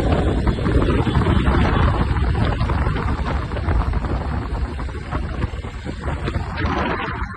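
Wind buffeting the microphone on a moving motorcycle, a loud, gusty rush with vehicle noise underneath, easing slightly near the end.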